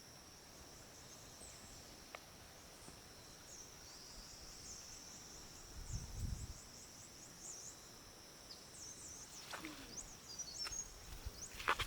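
Faint outdoor insect drone: a steady high shrill of insects with short repeated chirps over it. A low thud comes about six seconds in, and a few sharp clicks near the end.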